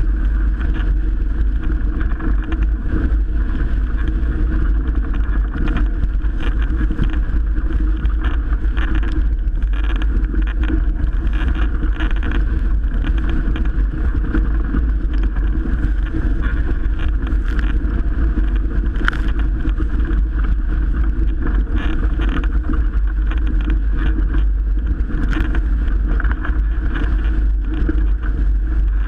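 Steady wind buffeting the microphone over rushing water as a Melges 24 sailboat sails in strong wind, with a heavy low rumble throughout.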